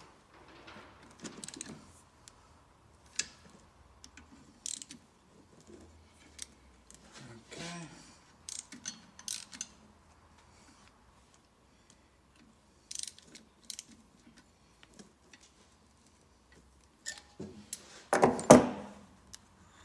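Hand tools on the crankcase nuts of a VW air-cooled engine: short runs of ratchet clicks and light metal taps as the nuts are nipped up, with a louder metal clatter near the end.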